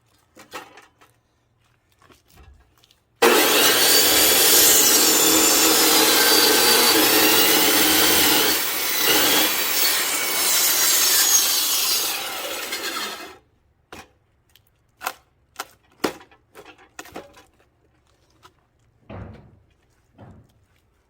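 Power saw cutting into a thick pine log. It starts abruptly about three seconds in, runs steadily for about ten seconds and stops suddenly; scattered knocks and clicks from the wood being handled come before and after. The blade is too short to pass through the log, so it is cut from several sides in turn.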